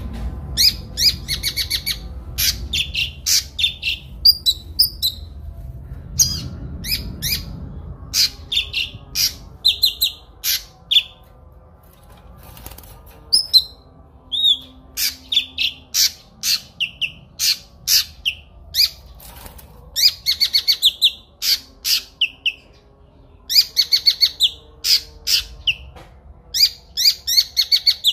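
A songbird, the kinoi, singing in long fast runs of sharp, high, clear notes, phrase after phrase with short pauses between; a faint low hum sits underneath.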